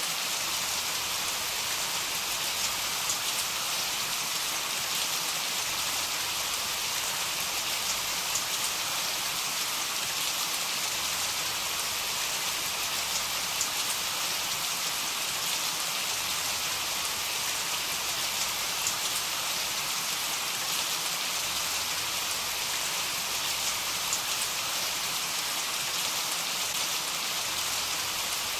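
Heavy rain falling steadily: a dense, even hiss of rain with scattered sharper ticks of single drops.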